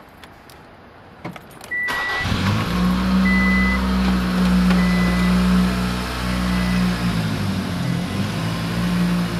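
A small hatchback's engine started: after a few quiet clicks it catches about two seconds in and settles into a steady idle, with a few short high beeps near the start.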